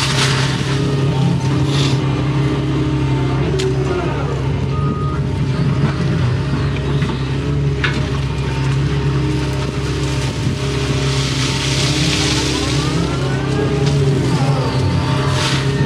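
Excavator's diesel engine running steadily inside the cab, with a hydraulic whine that rises and falls in pitch several times as the machine swings and works the bucket. A couple of sharp clicks and a brief rushing hiss about two-thirds through.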